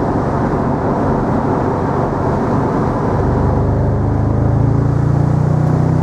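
Mercedes SL55 AMG's supercharged V8 running under load while driving in manual mode, over steady road noise. The engine note grows strong about three seconds in and holds.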